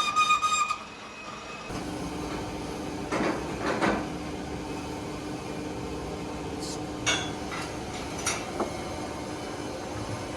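Workshop sounds: a steady hum with several sharp metallic clinks and clanks of metal parts being handled or struck. A pulsing tone breaks off under a second in.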